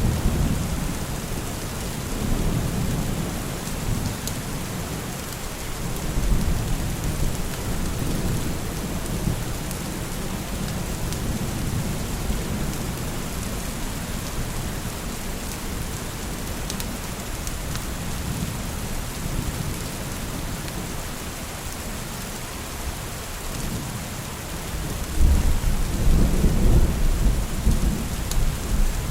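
Steady rain hissing, with rolling thunder. A deep rumble fades over the first few seconds, and a heavier rumble swells up about 25 seconds in.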